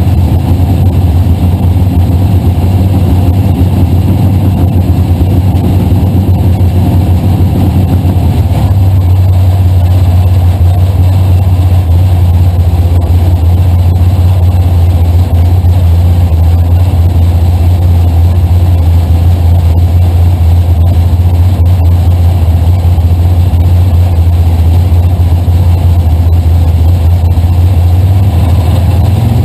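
Drag-racing Camaro's engine idling loudly and steadily, heard from inside the car's cabin. Right at the end the revs start to climb.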